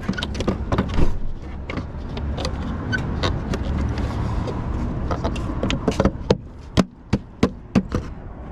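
Irregular sharp clicks and knocks of a truck's light bulb and plastic socket being handled and fitted into the lamp housing, over a steady low rumble.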